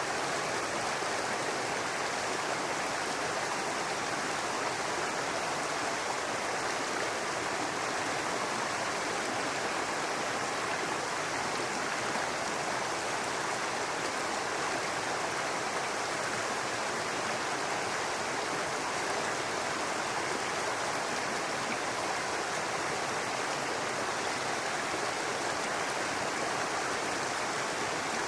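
Brook water running over rocks, a steady babbling rush with no change.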